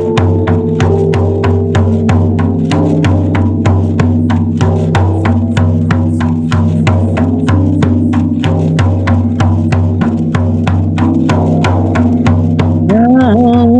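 A drum beaten steadily at about three strokes a second over sustained drone tones, as sound-bath music. Near the end a voice slides up into a held sung note.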